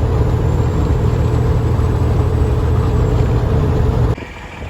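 Freightliner FLD semi-truck's Cummins N14 diesel running at highway cruise, a steady drone with road and wind noise in the cab. It cuts off abruptly near the end.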